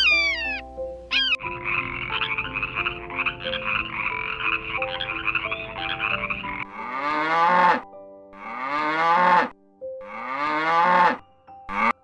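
Dubbed animal calls over soft background music: a short falling cry at the start, then a frog calling in a fast, pulsing trill for about five seconds, then three rising calls about a second long each.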